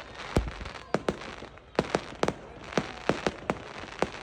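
Fireworks exploding overhead: a rapid, irregular string of sharp bangs and crackles, a deeper boom about half a second in, then bursts two or three a second.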